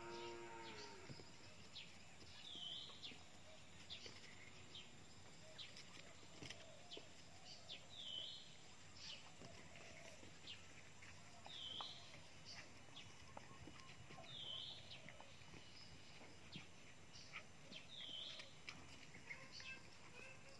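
Faint bird call: a short high chirp repeated five times, a few seconds apart, over scattered faint clicks.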